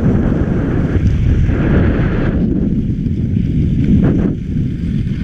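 Wind rushing and buffeting over the microphone while skiing downhill, a steady loud rumble, with a hissing layer that fades a little over two seconds in.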